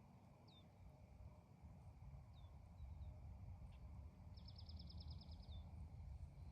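Faint birdsong: a few short, high chirps that slide down in pitch, then about halfway through a quick trill of roughly ten notes lasting just over a second, over a steady low rumble.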